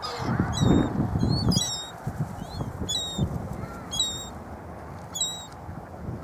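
Seagulls calling over and over, short sharp cries about once a second, with a low rumble underneath that is loudest in the first two seconds.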